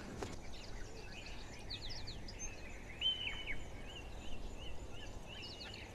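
Wild birds calling over faint outdoor background noise: a few quick falling notes, then from about halfway a short chirp repeated about three times a second.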